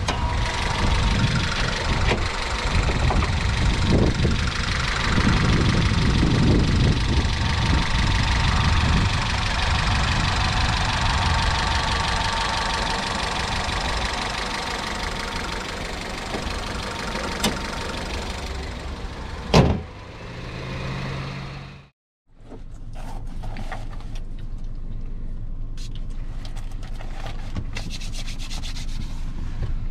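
Honda Capa's 1.5-litre four-cylinder engine idling, heard under the open bonnet with wind on the microphone. About twenty seconds in there is a single loud thump, and after a short break the idle is heard more quietly from inside the cabin, with a few small clicks.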